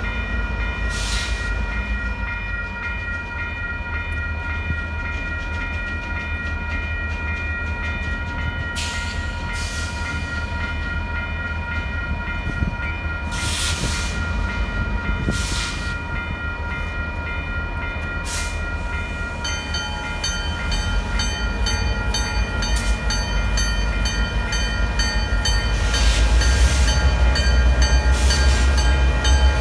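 Diesel locomotives of a slow freight train approaching, a steady low engine rumble that grows louder near the end as the lead GP9RM draws close. A bell rings throughout, its high tones pulsing more brightly from about two-thirds of the way in.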